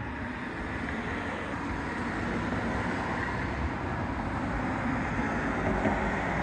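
Steady outdoor background noise, mostly low and mid-pitched, slowly growing a little louder.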